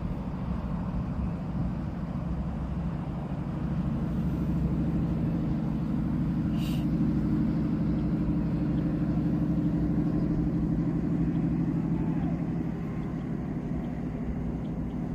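Steady low engine hum, swelling slightly in the middle and easing toward the end.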